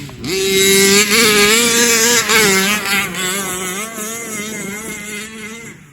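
Small two-stroke gas engine of a 1/5-scale Rovan Baja Max 5T RC truck running at high revs. It comes in a moment after the start with a steady high note that wavers up and down, eases off after about three seconds, and cuts off just before the end.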